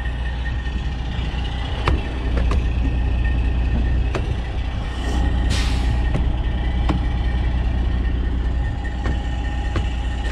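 Old Freightliner semi truck's diesel engine running with a steady low rumble, with scattered sharp clicks and knocks and one short hiss of air about halfway through.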